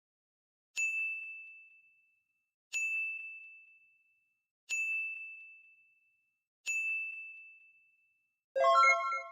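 A bell-like ding sound effect struck four times about two seconds apart, each a single high tone fading out. Near the end comes a louder chime of several notes together.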